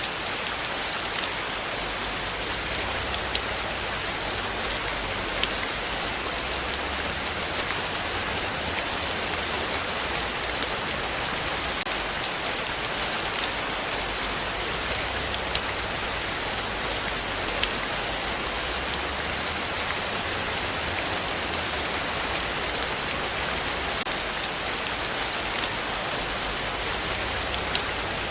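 Heavy rain falling steadily: a dense, even hiss full of small drop ticks.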